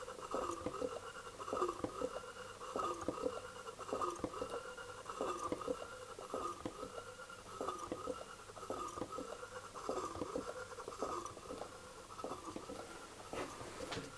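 Homemade Pringles-tube Stirling engine running, its moving parts giving a rhythmic scratchy squeak that rises and falls in pitch, with a click on each cycle, repeating a little under twice a second.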